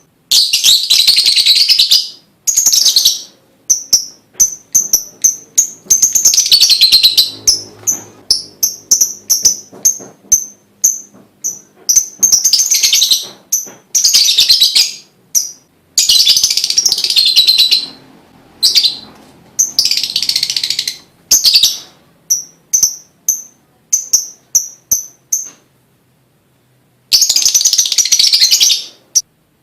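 Lovebird calling loudly: runs of short, sharp chirps alternate with harsh trilling bursts a second or two long. There is a brief pause shortly before the end.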